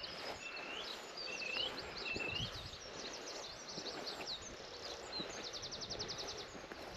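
Several wild birds singing: quick high chirps and short swooping whistles throughout, with a fast, even trill of about a dozen notes near the end.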